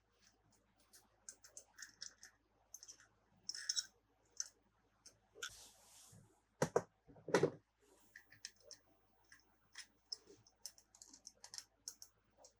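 Toys and packaging being handled: a run of small clicks and taps, a short rustle about six seconds in, and two louder knocks soon after.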